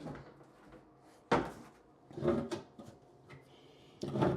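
Several knocks and bumps of a bathroom vanity cabinet being shifted and handled: a sharp one about a second in, a couple more around two seconds, and another near the end.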